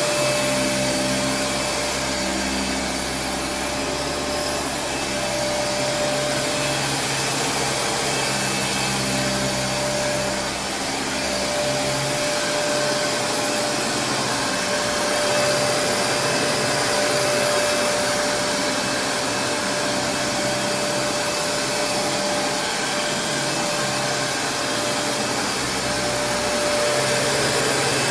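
Kenmore Progressive DirectDrive upright vacuum cleaner running steadily, its suction motor giving a constant whine over a rushing airflow, with a lower hum that shifts now and then.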